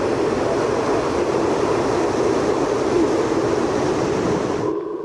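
Loud, steady rushing noise without any clear pitch, which cuts off suddenly near the end.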